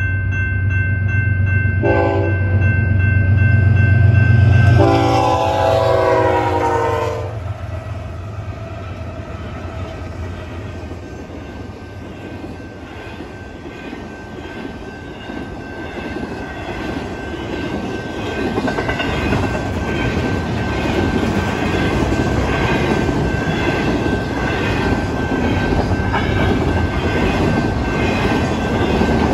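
Diesel locomotive horn at a grade crossing, sounding a short blast and then a long one as the locomotives rumble through. After that, double-stack intermodal well cars roll past with a steady rhythmic wheel clatter that grows louder in the second half. Over all of it the crossing's GS Type 2 electronic bell rings a steady high tone.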